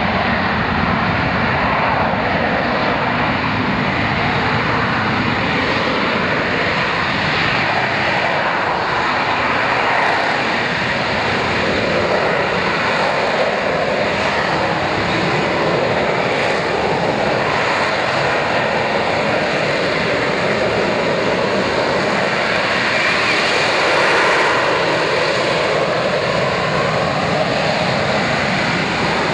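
British Aerospace Sea Harrier's Rolls-Royce Pegasus turbofan running, a steady, even jet rush with no breaks.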